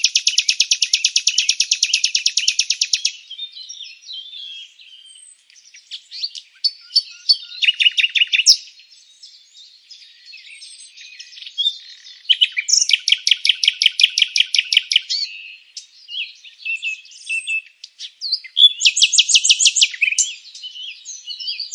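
Songbirds chirping: four rapid, high-pitched trills of quickly repeated notes, each a second to three seconds long, with scattered softer chirps and twitters in between.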